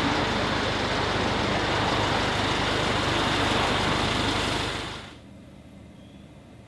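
A car running, a steady engine hum under a broad rushing noise, which drops away about five seconds in.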